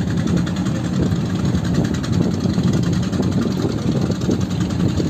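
Engine running steadily at an even speed, a constant low hum with a fine, even pulsing.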